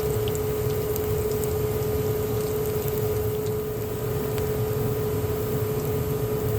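A small electric motor, such as a kitchen appliance's, running steadily with a steady hum over a low rumble.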